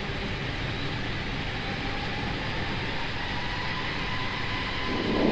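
Cockpit noise of an Airbus A321 airliner's jet engines: a steady rush with a whine that rises slowly from about halfway through as the engines spool up for the takeoff roll. A brief low thump comes near the end.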